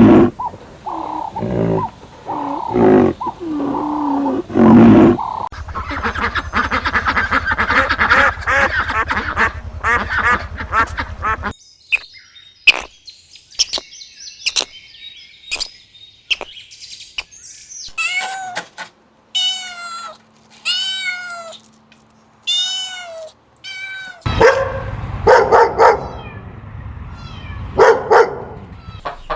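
A run of different animal and bird calls, one after another. Loud calls for the first few seconds are followed by a dense chattering stretch and scattered clicks. About two thirds of the way in comes a series of short, arching bird chirps, a little over one a second, and loud calls return near the end.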